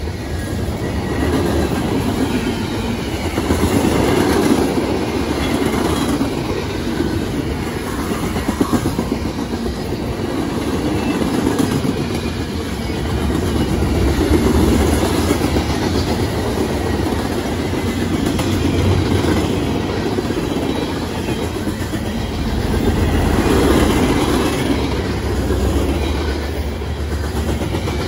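Cars of a long CSX mixed freight train (gondolas, tank cars, flatcars, boxcars) rolling past close by: a continuous rumble of steel wheels on the rails with a clickety-clack, the loudness swelling and easing every few seconds as the cars go by.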